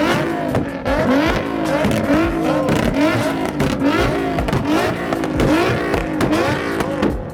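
Car engine revving over and over, its pitch climbing and dropping back about twice a second.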